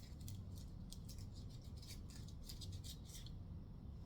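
Foil wrapper of a Hershey's Kiss crinkling as it is unwrapped: a run of faint, quick crackles that stops a little before the end.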